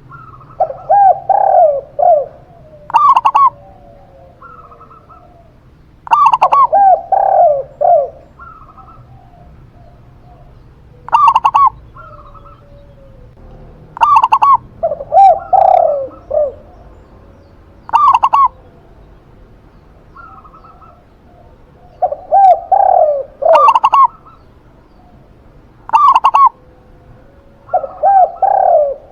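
A zebra dove and a spotted dove cooing, their short phrases of a few coos each recurring every few seconds, one call pitched higher and sharper, the other lower and rolling.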